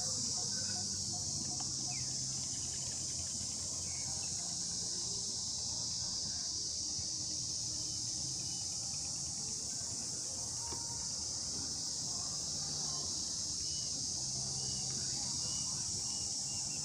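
Steady, dense chorus of insects, a continuous high-pitched buzz that holds level throughout. Scattered faint chirps and a low hum sit beneath it.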